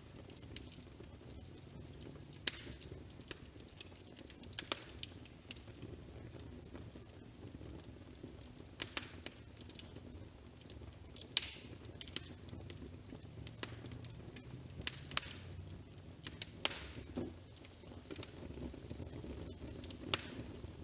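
Wood fire crackling, with irregular sharp pops and snaps over a low steady background.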